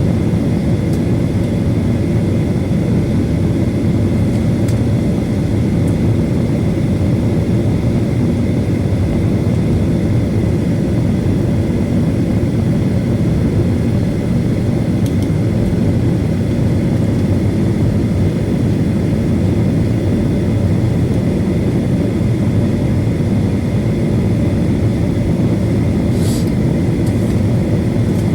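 Boeing 737 jet airliner taxiing with its engines at idle: a steady, even low rumble with a thin steady high tone running through it.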